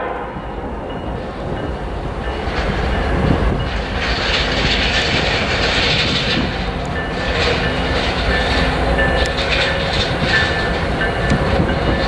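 Diesel locomotives of an empty coal train approaching: six BNSF units, EMD SD70ACe and GE ES44AC, running with wheel and rail noise. It grows louder over the first few seconds and then holds steady.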